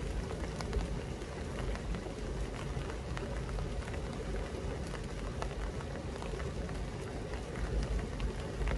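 Rain falling on apple-tree foliage: a steady wash of noise with scattered sharp drop ticks, over a low rumble.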